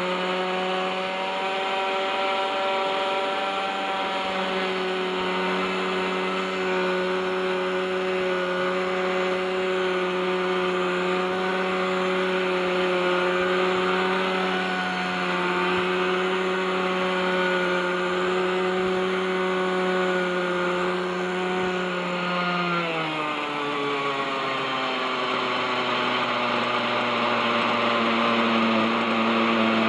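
OS 61SF two-stroke glow engine of a radio-controlled helicopter running steadily at hover. About 23 seconds in its pitch drops and it settles at a lower speed.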